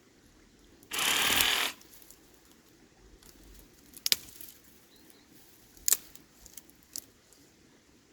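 Reciprocating saw cutting broom in one short burst of under a second, followed by three sharp snaps or clicks spread over the next few seconds.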